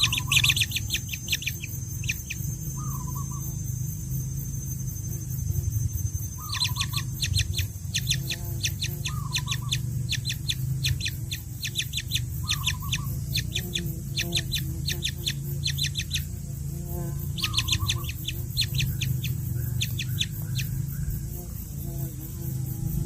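Baby birds begging with rapid, high chirps in long bursts of many quick notes, the calls of nestlings being fed. A steady low hum runs underneath.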